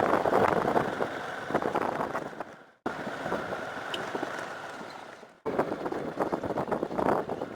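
A vehicle driving on a rough dirt road, with steady road noise and frequent knocks and rattles from the bumps. The sound fades away and cuts back in twice.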